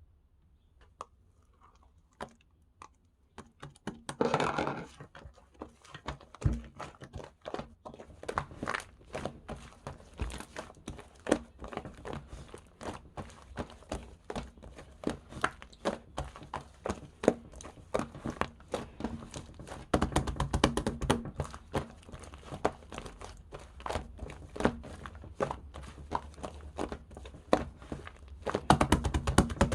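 Hands pressing, stretching and poking slime, making a dense run of sticky clicks and pops. It begins sparse, with louder squishing stretches about four seconds in, around twenty seconds in and near the end.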